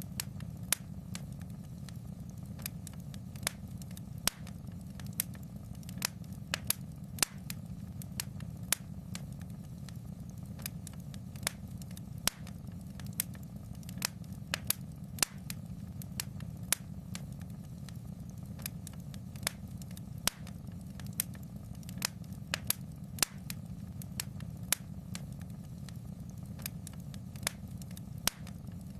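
Wood fire in a fireplace crackling, with sharp irregular pops about one to two a second over a steady low rumble.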